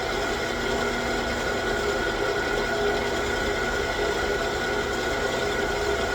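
9x20 gear-head engine lathe running steadily, its headstock gears giving a constant whine.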